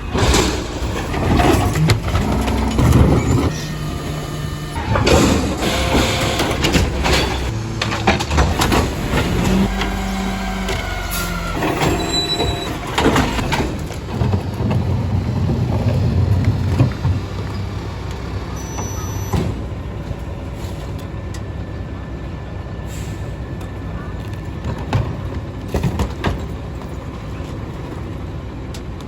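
Split-body garbage truck at work: its diesel engine running under the whine of the hydraulics, with clanks and thumps of the load and packer. The sound is busiest in the first half and settles to a steady engine run with occasional clicks after about seventeen seconds.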